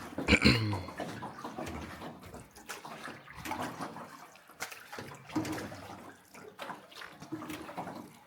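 Oars or paddles dipping and splashing in water as a small rowboat is rowed, in irregular strokes. A brief loud noise about half a second in.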